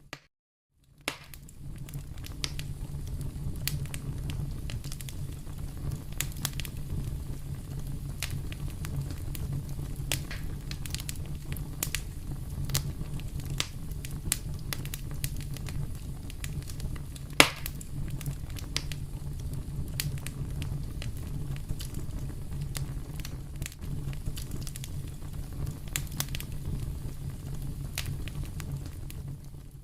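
Fire burning in a fireplace: a steady low rumble of flames with frequent crackles and pops, and one sharper, louder pop about halfway through. The sound drops out for about a second at the very start.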